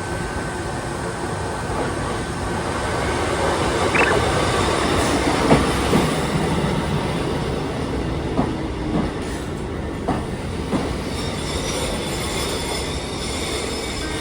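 Kotoden (Takamatsu-Kotohira Electric Railroad) electric train running, with steady rumbling noise, a brief wheel squeal about four seconds in, and several sharp knocks over the next several seconds.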